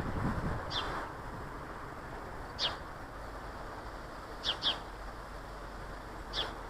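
Small garden birds giving short, high calls that fall in pitch, five in all, two of them close together near the middle, over a steady background hiss. A brief low rumble comes right at the start.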